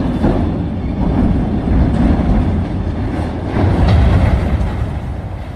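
Loud, steady low rumble of a vehicle in motion, swelling a little about two and four seconds in.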